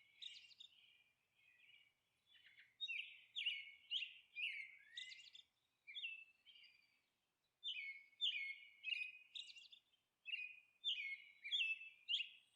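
Small birds chirping: quick runs of short, high chirps, several a second, broken by brief pauses.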